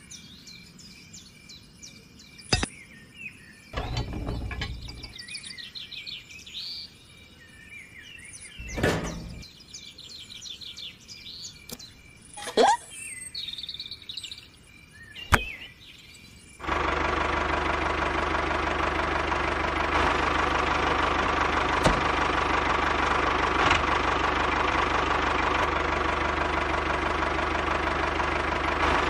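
Birds chirping with a few sharp clicks of small metal parts being handled. A little over halfway in, the miniature model tractor's engine sound starts suddenly and keeps running steadily, like a small diesel idling.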